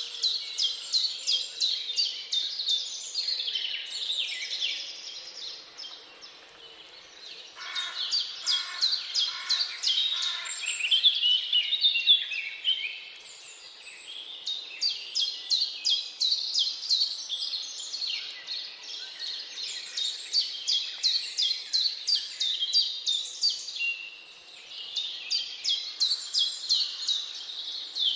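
Forest songbirds singing: runs of quick, high chirps at about four a second, each run lasting a few seconds with short pauses between, and a lower repeated call joining in about a third of the way through.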